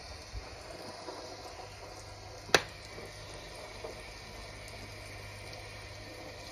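Steady rain sound from a sound machine, an even hiss. A single sharp click sounds about two and a half seconds in.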